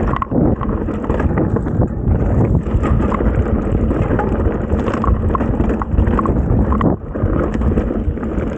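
Mountain bike riding fast down a dirt trail: wind rushing over the camera microphone, with the bike rattling and knocking over the bumps of the trail.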